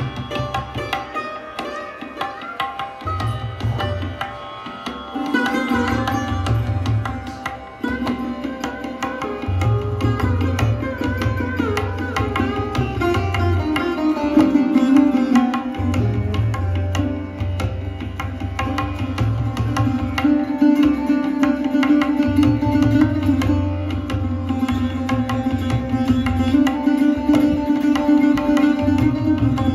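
Sarod playing a plucked melody, with sliding notes around the middle, over a deep drum accompaniment that returns in repeating phrases every few seconds.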